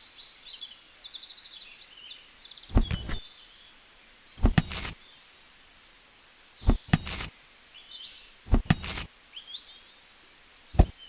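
Small birds chirping, with a quick trill about a second in. A dull knock sounds every couple of seconds, several of them in close pairs.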